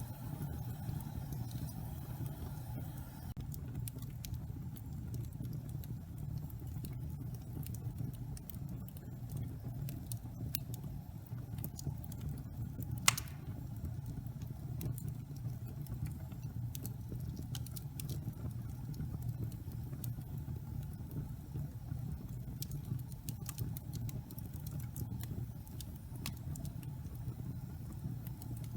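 Wood fire burning in a fireplace: a steady low rumble with scattered sharp crackles, and one loud pop about halfway through.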